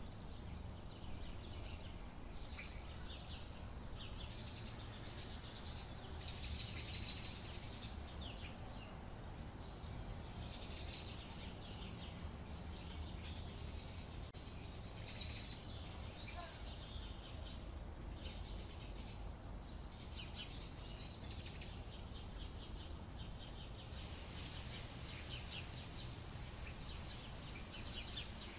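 Wild songbirds chirping and calling in short repeated bursts, busier in the last few seconds, over a steady low rumble.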